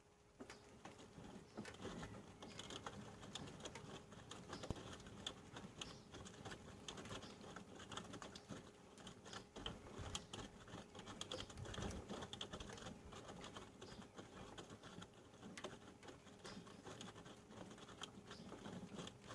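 Panasonic NA-147VB2 inverter washing machine drum tumbling its load in the wash: faint, irregular pattering of wet laundry and water in the drum, over a steady low hum. The tumbling starts about half a second in, after a pause.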